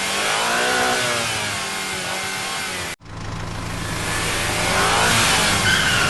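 An engine revving, its pitch wavering up and down, in two separate takes joined by a sudden cut about three seconds in.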